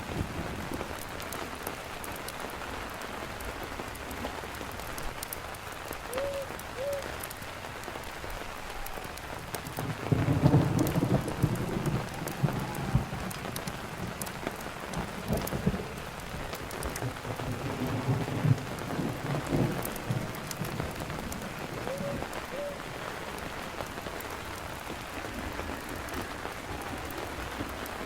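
Steady rain with a constant hiss and scattered sharp ticks of drops. About ten seconds in a low rumble swells for roughly ten seconds, then fades back under the rain.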